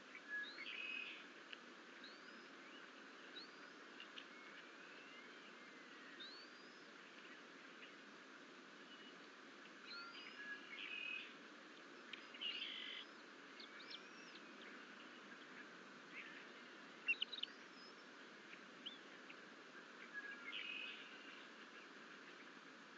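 Faint bird calls: short high rising chirps scattered throughout, with a few buzzier calls repeated at intervals, over a steady outdoor hiss.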